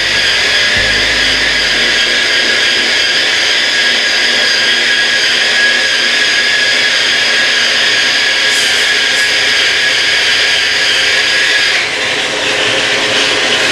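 Bosch variable-speed grinder running steadily with a dry diamond polishing pad on marble, giving a loud high whine. The whine drops slightly in pitch and level near the end.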